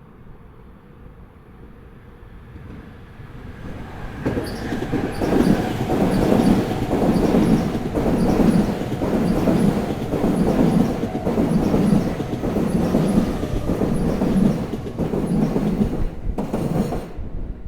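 A Sobu Line electric train passing over rail joints. The sound builds over the first few seconds, then becomes a loud, regular clatter as the wheel sets hit the joints, about one heavy beat a second, with faint high ticking above it. It cuts off sharply near the end.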